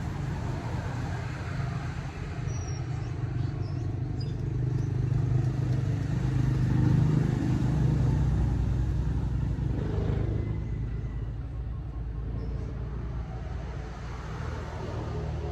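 Motor vehicle engine running with a low road rumble. It grows louder in the middle and then eases off.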